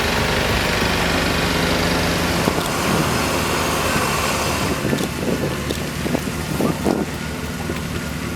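Heavy-haul truck's diesel engine running steadily, with a dense rushing noise over it that drops away about five seconds in.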